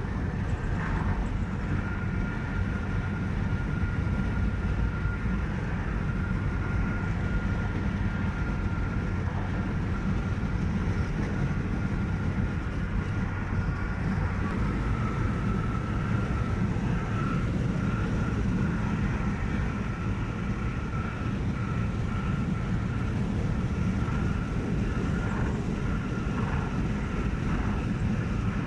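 Steady road noise of a car travelling at speed on a highway: a low, even rumble with a faint high whine above it.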